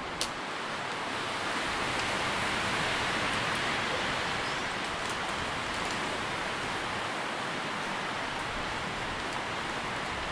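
Wind through tree leaves: a steady rustling hiss that swells a little a couple of seconds in, with one sharp click just after the start.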